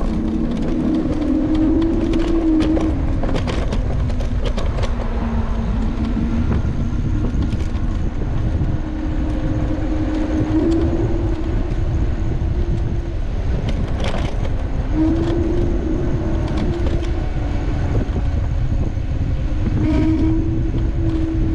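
A vehicle in motion with a steady rumble, and over it a low whine that rises and falls in pitch several times.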